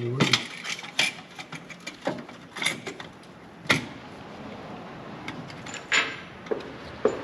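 Irregular clinks and knocks of metal exhaust clamps and pipe being handled and fitted, about seven in all.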